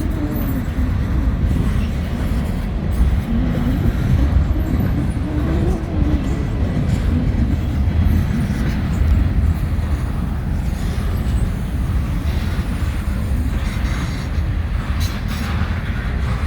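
Freight train rolling past, a steady low rumble of wheels on rail.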